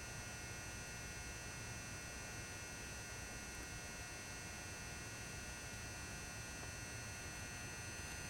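Lit 400-watt high-bay mercury vapour lamp's ballast giving a faint, steady mains hum, with thin high whining tones above it.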